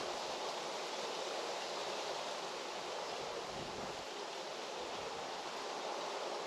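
Outdoor rural ambience: a steady, even hiss, with a brief low rumble of wind on the microphone about three and a half seconds in.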